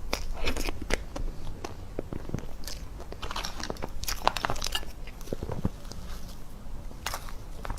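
A person eating dessert: bites and chewing with irregular crunchy clicks and crackles.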